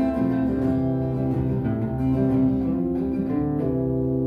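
Acoustic guitar playing an instrumental passage between sung verses, with chords held and ringing.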